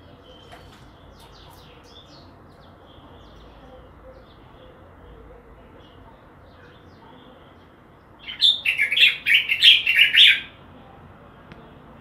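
A songbird calling: faint scattered chirps, then about eight seconds in a loud, quick string of high notes lasting about two seconds.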